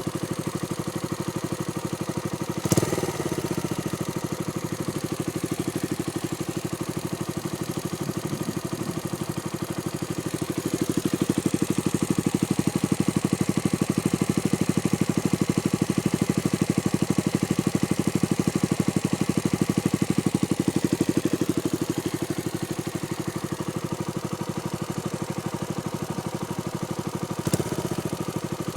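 Suzuki Grasstracker Big Boy's single-cylinder four-stroke engine idling through a SuperTrap aftermarket muffler, with a steady exhaust beat. It has two brief sharp bursts, about three seconds in and near the end.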